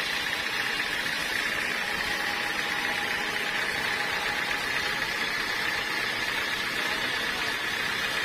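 Sawmill machinery running steadily, an even mechanical whine with no change in pitch or level.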